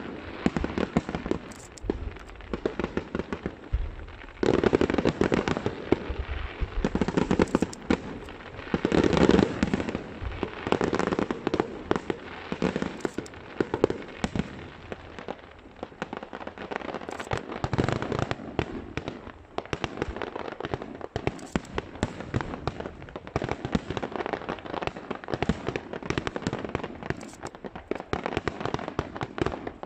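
Aerial fireworks going off in quick succession: a dense run of bangs and crackling. It is heaviest in the first half and thins to lighter, scattered crackle later on.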